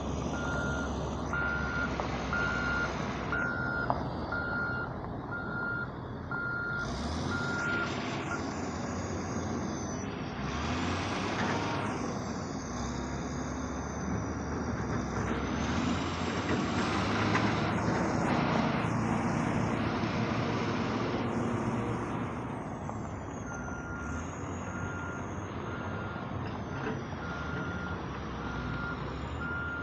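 Heavy diesel machinery working: an excavator and dump truck engines running under load, with a hydraulic whine and bursts of hissing noise that peak in the middle. A steady high beeping backup alarm, about three beeps every two seconds, sounds at the start, stops after about eight seconds, and comes back for the last quarter.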